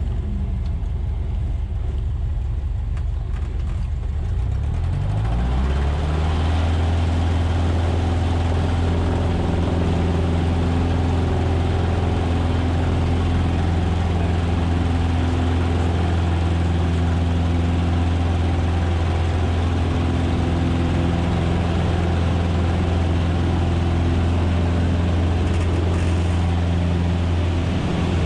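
Cessna 150's four-cylinder Continental O-200 engine running at low power, then throttled up about five seconds in, its pitch rising, and holding steady at full power, as for a takeoff.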